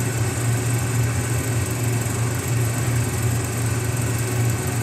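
Excavator engine sound running steadily: a continuous low hum with an even noisy rumble above it.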